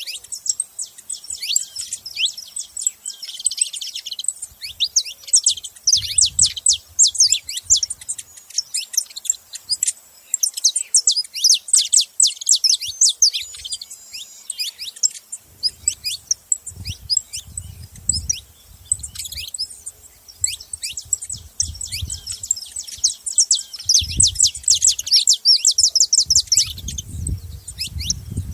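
Saffron finches chirping at a feeding spot: a dense, rapid run of short, high, sharply falling chirp notes. A low rumble comes and goes underneath.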